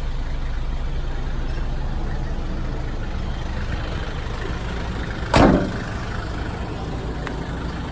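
Nissan Atlas's TD27 naturally aspirated diesel, a 2.7-litre four-cylinder, idling steadily. A single loud thump about five seconds in.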